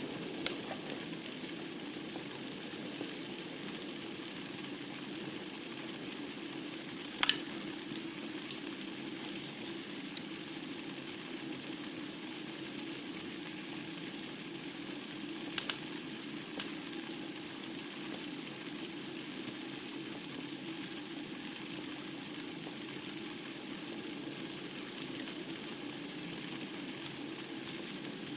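Wood fire burning in a fireplace: a steady low rush and hiss with sharp crackles and pops scattered through, the loudest pop about seven seconds in.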